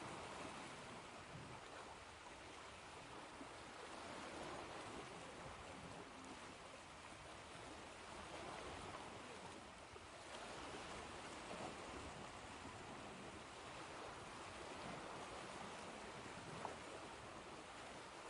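Faint ocean waves washing ashore in a continuous rushing wash that swells and eases every few seconds.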